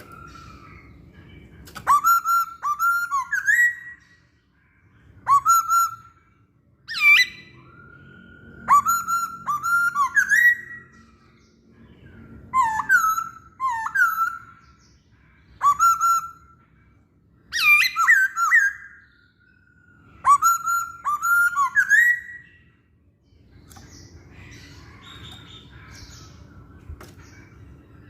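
Masked laughingthrush (poksay Hongkong) singing: loud whistled phrases of rising and falling notes, repeated every two to three seconds with short pauses between, falling silent for the last few seconds.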